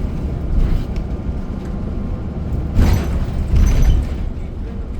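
Inside a moving city bus: steady low engine and road rumble, with two louder hissing swells about three and four seconds in.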